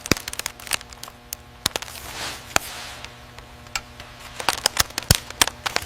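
Irregular sharp clicks and knocks, several a second, over a steady machine hum.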